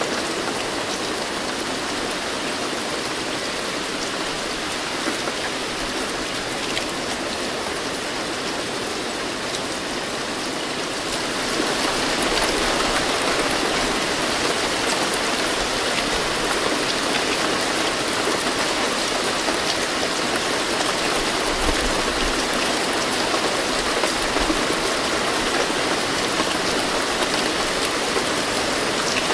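Steady rain falling, a dense even hiss of drops, which grows heavier about eleven seconds in.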